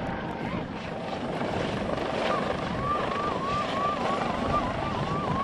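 Helicopter rotor and engine noise running steadily. From about two seconds in, a short rising tone repeats about two and a half times a second over it.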